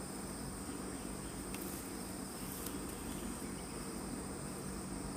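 Forest insects shrilling in a steady, continuous high-pitched chorus, with two faint ticks in the middle.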